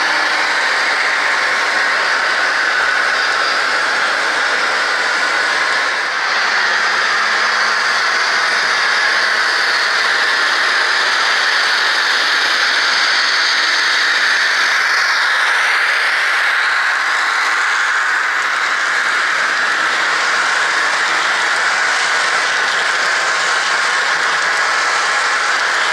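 HO-scale model train running along the layout track: a steady whirring and rolling hiss from the locomotive and cars on the rails.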